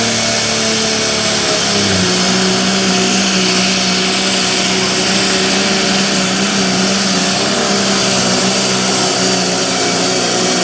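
Light limited pulling tractor's diesel engine running hard and steady, with a step in pitch about two seconds in.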